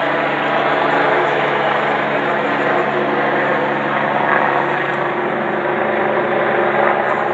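Helicopter hovering, its rotor and engine making a loud, steady drone.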